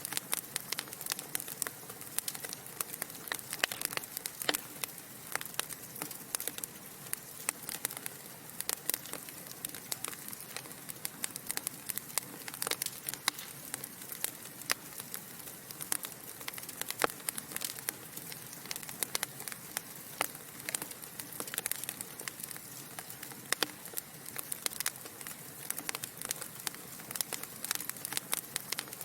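Wood fire of burning logs in a fireplace crackling: a steady stream of irregular sharp pops and snaps over a soft hiss.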